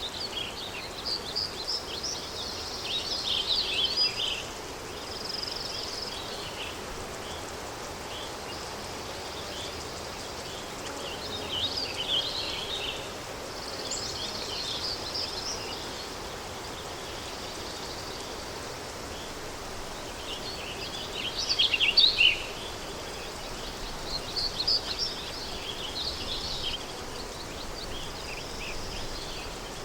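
Countryside ambience of wind on a cloudy, windy day: a steady even hiss, with small birds singing and chirping in short bursts every few seconds, loudest about two thirds of the way through.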